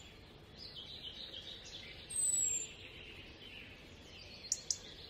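Birds chirping faintly over a steady hiss, with one loud, high falling whistle about two seconds in. Two sharp clicks come close together near the end.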